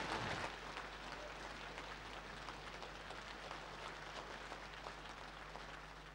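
Audience applause, many hands clapping, dying away gradually toward the end.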